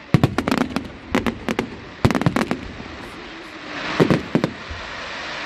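Fireworks bursting: quick clusters of sharp cracking bangs, several reports in each cluster, coming in four groups.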